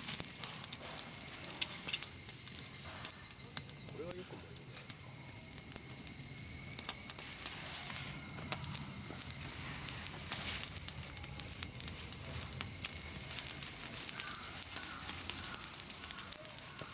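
A steady, high-pitched chorus of summer insects, with faint pops and crackles from a wood campfire.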